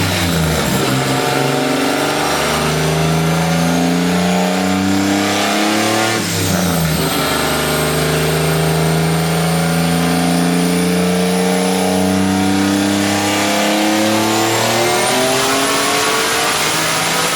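Turbocharged Ford Thunderbird SuperCoupe 3.8-litre V6 pulling hard through the gears. There is a gear change about six seconds in, and then a long pull with the engine note climbing slowly. A high whine rises near the end.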